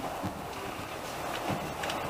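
Passenger train running: a steady rush and rumble, with a couple of short low thumps.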